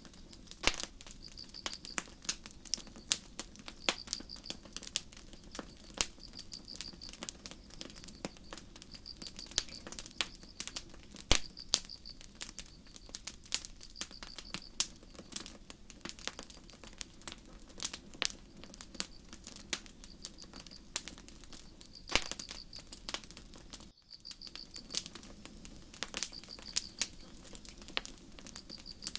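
Campfire crackling with irregular sharp pops, over crickets chirping in short pulses about once a second. The sound briefly cuts out near the end.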